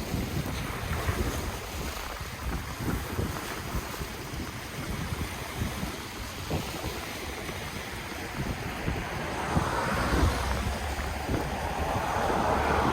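Ocean waves washing onto the shore, with wind buffeting the microphone. A wave breaks and rushes in about ten seconds in, and another swells up near the end.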